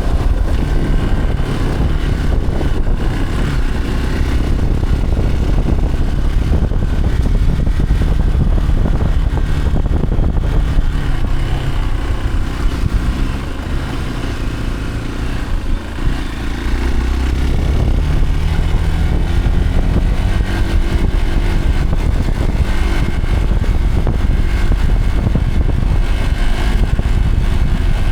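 A motor vehicle's engine running steadily while under way, with a heavy low rumble. About halfway through, the engine note drops and the sound eases off for a few seconds, then the pitch climbs back up.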